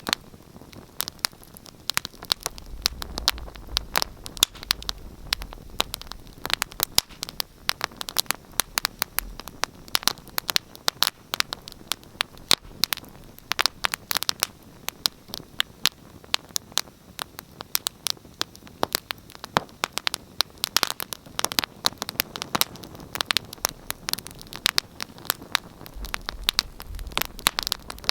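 Wood fire crackling in a fireplace: many sharp, irregular pops and snaps over a soft steady hiss of flame, with a low rumble of burning now and then.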